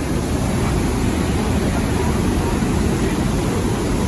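Steady, loud rushing of the falling water at Niagara Falls: an even, deep noise with no breaks.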